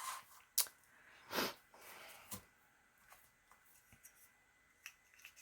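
Quiet handling of paper: a few soft rustles and brushes, the longest about a second and a half in.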